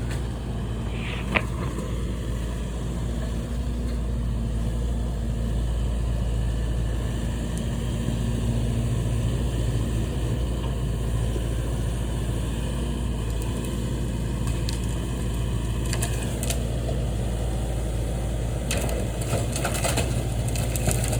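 Heavy equipment engine running steadily during demolition work, with scattered cracks and crunches of breaking debris near the end.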